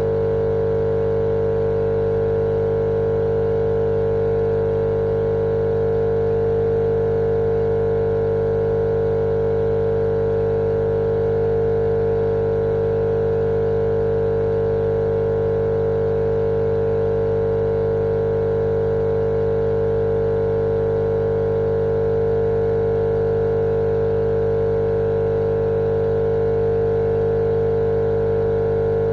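Steady, unchanging machine drone with a strong constant hum and a hiss behind it, not varying at all.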